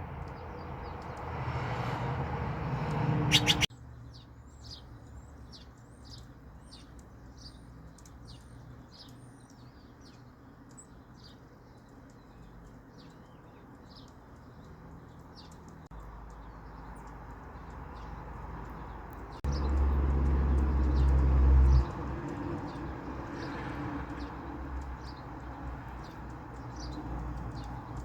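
Small birds chirping outdoors: short, high chirps repeated over and over. A low rumble underlies the first few seconds, stops suddenly, and comes back louder for a couple of seconds about twenty seconds in.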